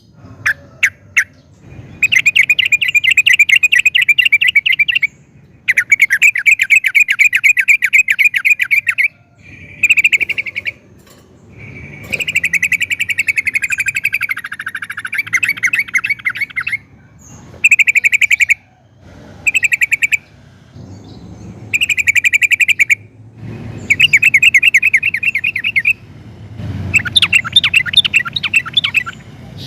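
Yellow-vented bulbul (trucukan) singing: a series of about nine loud phrases of fast, repeated trilled notes, each one to several seconds long, separated by short pauses.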